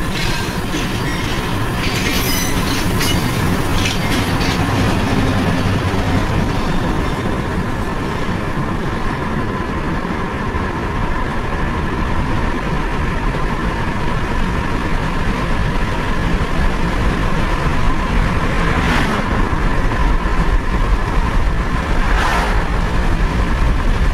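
Steady running noise of a passenger train hauled by a diesel locomotive, with some rail clatter, mixed with road and wind noise from a car driving past it on a parallel road.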